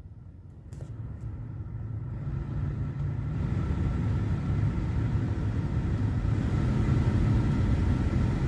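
Renault Scenic II heater blower fan running, air rushing through the dash vents, getting steadily louder over the first several seconds as the fan speed is stepped up, with a faint steady whine. Two light switch clicks come about a second in. The blower runs again after its burnt wiring at the speed regulator was resoldered.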